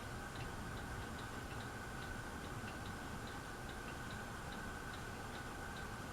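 Harbor Breeze Aristocrat ceiling fan running on medium speed: a light, regular clicking, about two to three clicks a second, over a faint steady motor hum.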